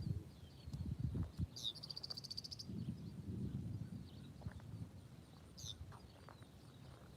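A bird calling: a rapid high trill about a second and a half in, then short downward-sweeping chirps near the end, over gusty low rumbling noise.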